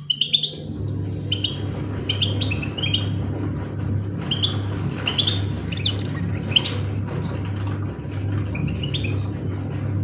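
Small cage birds chirping: short, high chirps and brief glides come every second or so, over a steady low hum.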